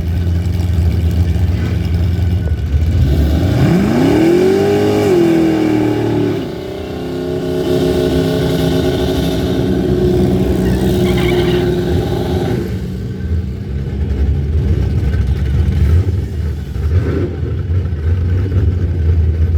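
Drag-racing V8 engines on a run: after a steady low rumble, the revs climb steeply at launch, drop back at a shift, then hold at full throttle for several seconds before lifting off about twelve seconds in. The low rumble carries on afterwards.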